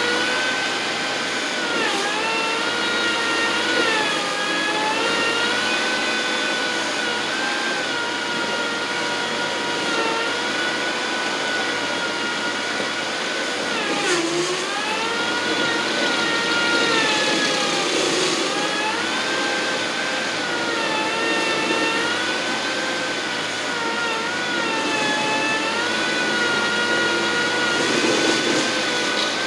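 Engine of a piece of landscaping machinery running hard, its pitch repeatedly dipping and recovering as it takes load, with sharper drops a couple of seconds in and about halfway through.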